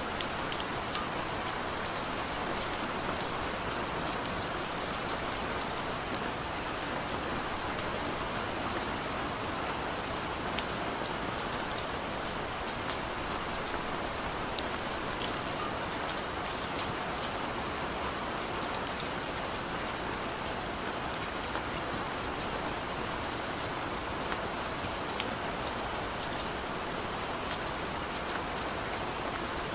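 Steady rain falling on a surface, an even hiss with many fine drop patters throughout.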